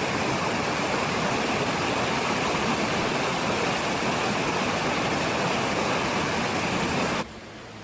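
River water rushing steadily over rocks, cutting abruptly to a quieter flow near the end.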